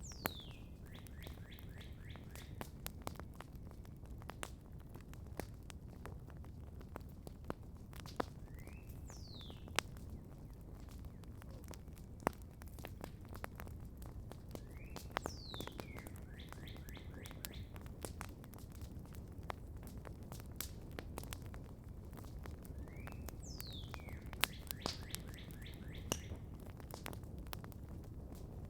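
Campfire crackling, with many scattered sharp pops over a steady low rumble. A songbird sings the same short phrase about four times: a falling whistle, then a brief buzzy trill.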